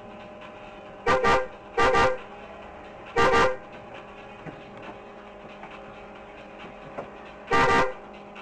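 Car horn sounding four short blasts: two in quick succession, a third about a second later, and a fourth several seconds after. It runs over a steady low drone.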